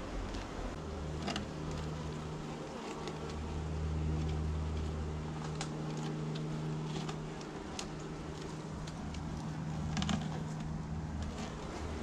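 Honeybees humming around an open hive, a steady low drone that swells and fades, with scattered sharp clicks.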